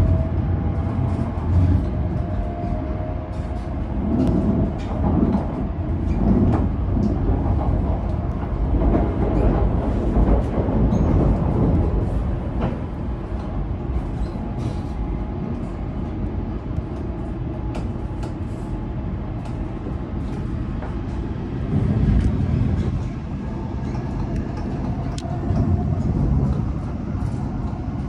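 Hokuriku Shinkansen train pulling out of the station, heard from inside the passenger cabin: a steady low rumble of the running gear with faint tones from the drive and small rattles and clicks.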